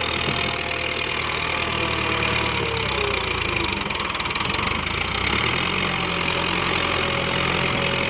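Farm tractor's diesel engine running steadily, its note changing about five and a half seconds in.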